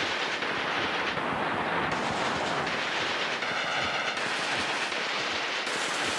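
Heavy rain, a dense steady hiss that turns brighter in sudden steps a few times.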